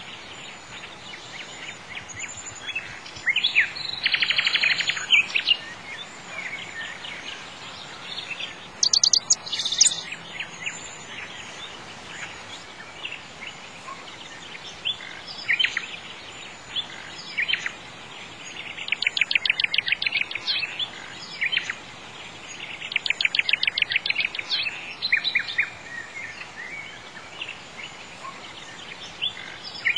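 Birdsong ambience: several birds chirping, with three rapid trills of quickly repeated notes, about four seconds in, around nineteen seconds and around twenty-three seconds, over a steady outdoor background hiss.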